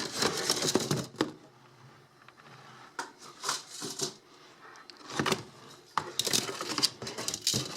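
Sections of metal Lionel toy train track being pulled out of a cardboard box: irregular clicks, knocks and rattles of the metal pieces with rustling of cardboard and paper, busiest near the end.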